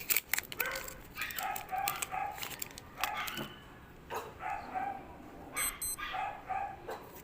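A dog barking again and again, the barks often coming two or three in quick succession. In the first second there is sharp crinkling, like a foil card pack being torn open.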